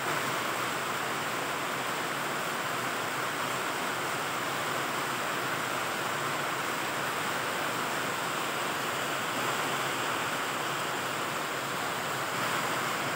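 Heavy rain falling in a steady downpour: a constant, even hiss with no breaks.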